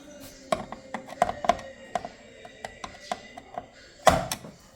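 Small clicks and taps of a screwdriver and small hardware being handled on a PC motherboard while M.2 SSDs are taken out, with one louder knock about four seconds in.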